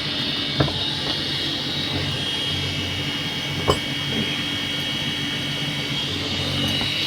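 Steady hum of running machinery, with a constant high whine over a low drone. Two short knocks sound, one about half a second in and one near the middle.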